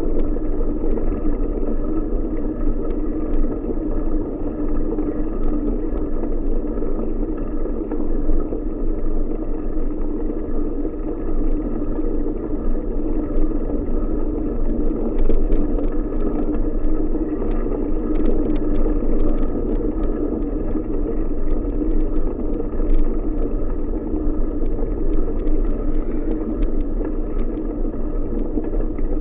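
Steady riding noise from a bicycle on a country road: a continuous rumble of wind and tyre noise, with scattered light clicks throughout.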